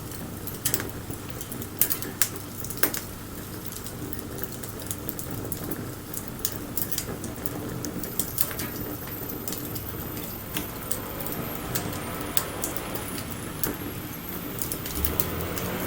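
Wood bonfire crackling, with frequent sharp snaps and pops over a steady hiss. From about eight seconds in, a thin high whistle comes in and slowly rises in pitch.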